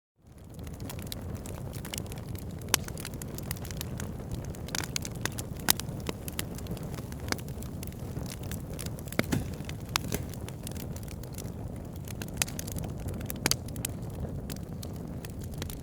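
Burning wood logs crackling: a steady low rumble of flame with frequent sharp, irregular pops and snaps. The sound fades back in over the first second.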